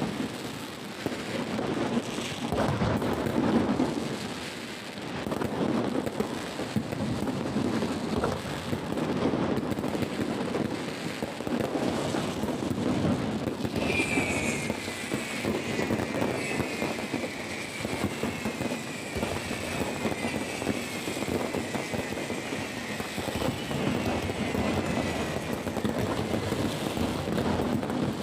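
Fireworks display: a continuous run of booms and crackling bursts. From about halfway a high whistling tone slowly falls in pitch under the bangs.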